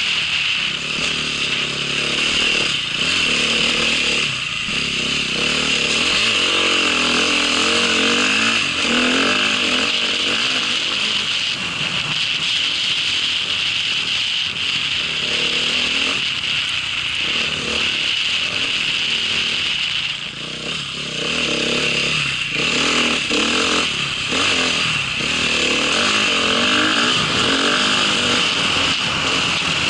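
Small vehicle engine running under way, its pitch rising and falling as the throttle opens and closes, over a steady hiss. It eases off briefly about 20 seconds in, then picks up again.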